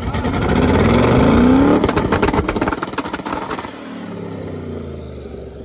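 Twin-turbo limo's engine revved hard, its pitch rising for about two seconds, then crackling and popping as the revs drop off and the sound fades to a lower run.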